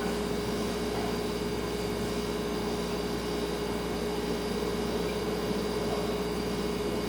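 Refrigerator running: a steady hum with one constant tone over an even hiss, unchanging throughout.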